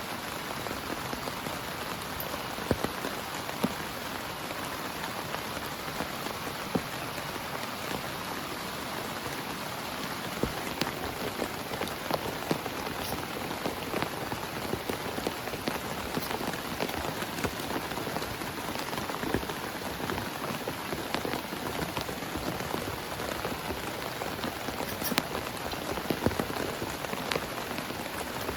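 Heavy rain falling on a tent: a steady hiss with many sharp individual drop hits scattered through it.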